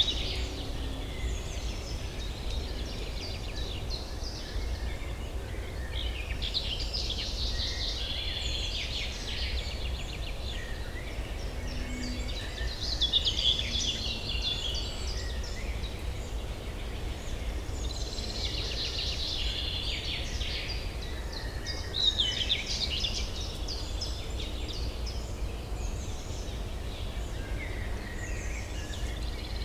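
Songbirds singing in short phrases of rapid chirps that recur every few seconds, over a steady low urban hum.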